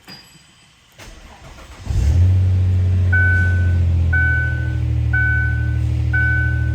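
A 2005 Lincoln LS 3.0L V6 is cranked and starts about two seconds in, then runs at a steady idle. From about three seconds in, the car's warning chime beeps about once a second.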